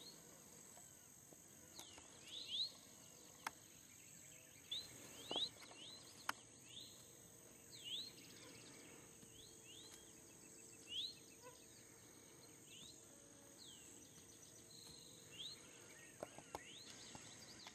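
Faint outdoor ambience: a bird repeating short, quick rising call notes every second or two over a steady high insect drone, with a few isolated clicks.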